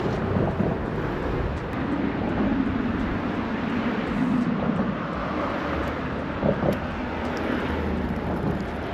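Steady low engine drone with a hum that swells a few seconds in.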